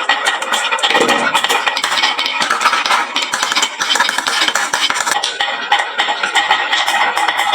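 Many marbles clattering down a HABA wooden marble-run slope: a dense, continuous rattle of small clicks and knocks.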